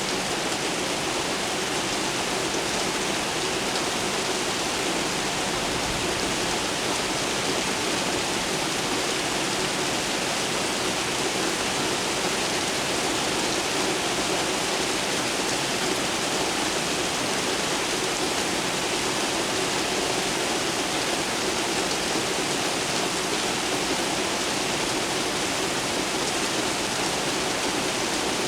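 Steady rain falling downtown: a dense, even hiss of rain with no thunder.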